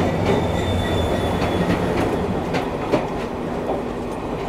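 An express train pulling in past a halted train, its wheels clacking over the rail joints with a steady rumble, and a faint thin wheel squeal in the first second or so.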